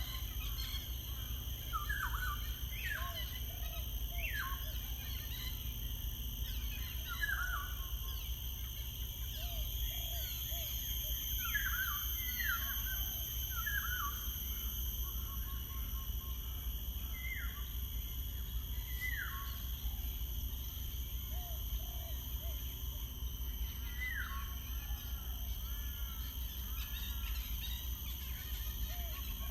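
Wild birds calling, with short, quickly falling whistled notes every second or two, over a steady low rumble and a faint high steady whine.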